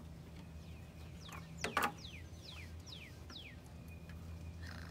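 A bird calling, a run of about six quick whistled notes, each falling in pitch. A couple of sharp clicks come just before the run and are the loudest sound. A steady low hum lies underneath.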